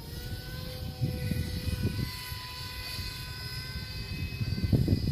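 Electric motor and propeller of a radio-controlled aircraft whining steadily in flight, the pitch drifting slightly. Low rumbling gusts of wind noise come and go, strongest near the end.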